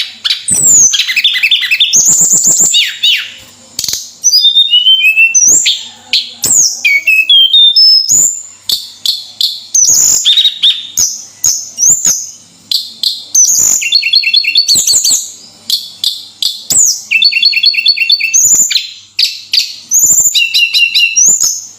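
Tledekan gunung songbird singing continuously: a loud, varied song of sharp chirps, quick downward-sliding whistles and rapid trilled runs, with brief pauses between phrases.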